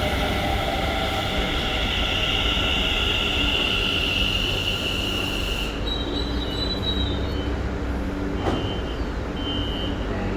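Mitre line commuter train pulling into the station with a steady high-pitched squeal of wheels and brakes over a low rumble. The squeal cuts off suddenly about halfway through, as the train stops. A single knock follows, then a few short high tones repeating.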